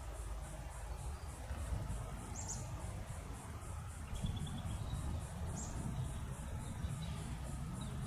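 Insects chirping in a steady high-pitched pulse, about four times a second, with a few short bird chirps and a low rumble underneath.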